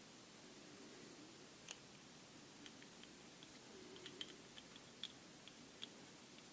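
Near silence with a scattering of faint, sharp clicks as small parts of a pressure washer's pump valve are handled and worked loose, most of them in the second half.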